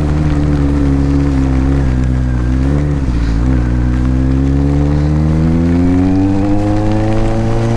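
Kawasaki Z900 inline-four engine heard from the rider's helmet mic, pulling steadily under way. About three seconds in the revs dip briefly, as at a gear change, then climb smoothly as the bike accelerates, dropping off at the very end as the throttle closes.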